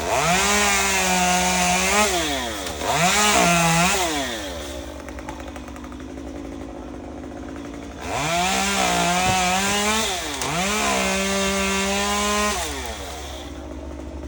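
Two-stroke chainsaw revving to full throttle in four bursts of one to three seconds, paired two and two, and dropping back to idle between them.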